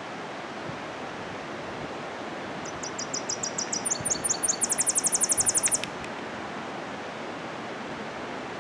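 Tennessee warbler singing one song: a run of sharp, high chips starting about three seconds in that speeds up into a rapid, louder trill and stops about six seconds in, over a steady rushing background noise.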